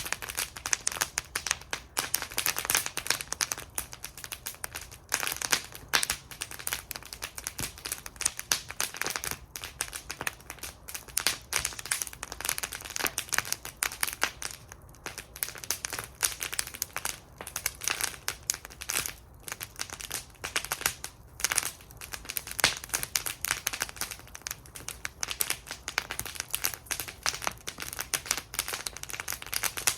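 Wood fire burning in a metal fire bowl, crackling and popping continuously with dense, irregular snaps.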